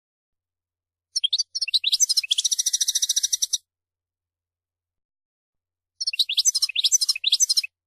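European goldfinch singing: two quick, twittering song phrases of rapid high notes, the first ending in a fast, evenly repeated buzzy trill.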